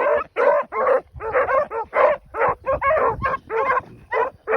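Pack of rabbit hounds barking on the run, several dogs giving short, overlapping barks about three or four a second as they trail a rabbit.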